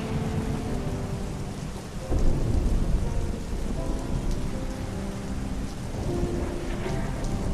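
Steady rain falling, with a low rumble of thunder that swells about two seconds in.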